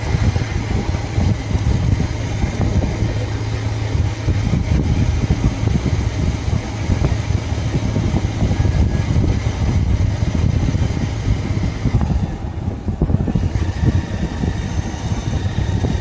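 Motorcycle running while being ridden, a loud, uneven low rumble.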